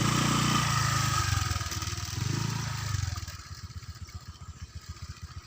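A small engine running with a rapid, even pulse. For the first three seconds a louder engine note swells twice and then falls away.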